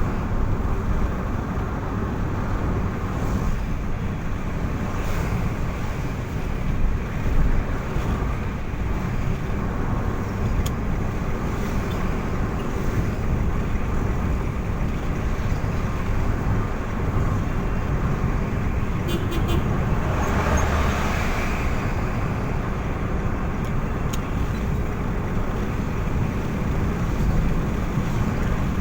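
Steady road noise of a vehicle driving: a continuous low engine and tyre rumble, with a brief louder swell about twenty seconds in.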